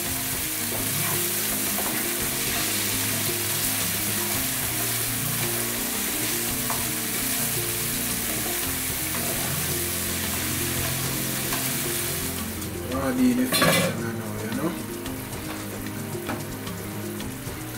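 Sliced onions, tomatoes and peppers sizzling as they fry in oil in a non-stick pan, stirred with a spatula. About twelve seconds in the sizzle drops away, with a short louder burst of sound just after.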